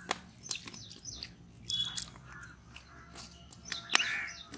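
Birds chirping in short high calls, with a few sharp clicks scattered through, the first right at the start.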